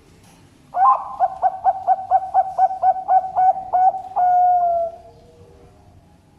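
Zebra dove (perkutut) singing: a run of about a dozen quick, evenly spaced coos, then one long held note that slides slightly down at the end.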